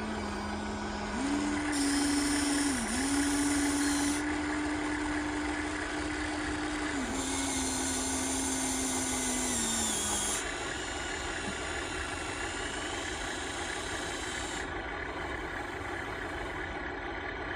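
Small electric motors of radio-controlled model construction machines whining. The hum steps up in pitch about a second in, dips briefly, steps down and stops about ten seconds in, while higher motor whines start and stop.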